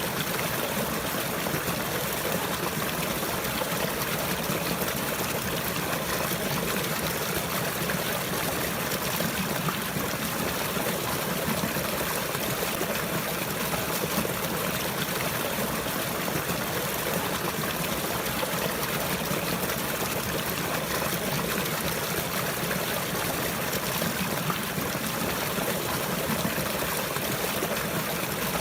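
Steady running water, a stream trickling and burbling without a break.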